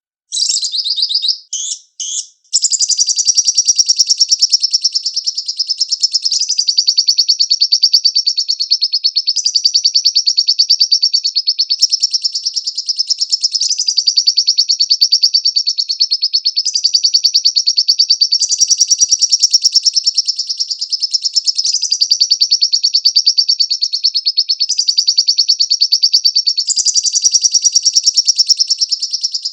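Lovebird song: a long, fast chattering trill of rapid high notes. It stops and starts twice in the first couple of seconds, then runs on without a break, its pitch stepping up and down every few seconds.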